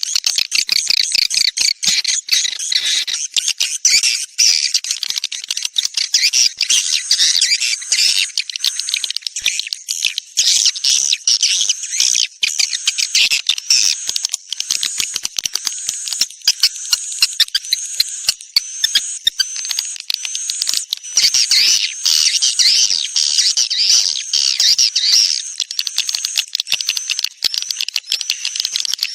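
Swiftlet lure call track: dense, continuous twittering and chirping of swiftlets, with rapid repeated high sweeps and many sharp clicks, played to draw swiftlets into a nesting house.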